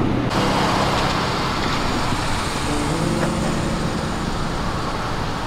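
A car engine running steadily at idle with a low hum, against a wash of outdoor traffic noise.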